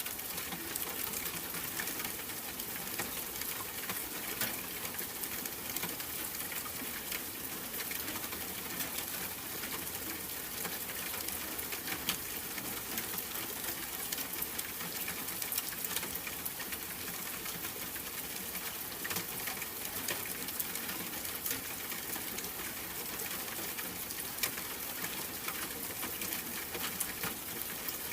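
Steady rain falling: an even hiss of drops with many small ticks.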